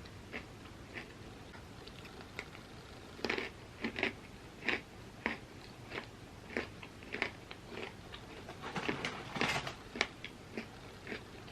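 A person biting and chewing crunchy chips: a few faint crunches at first, then a run of sharp, irregular crunches from about three seconds in.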